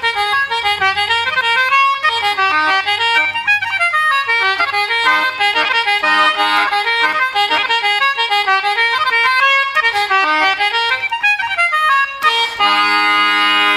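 Irish traditional reels played briskly on free-reed instruments, concertina with button accordion, in a run of quick notes. About twelve seconds in the tune ends on a long held chord.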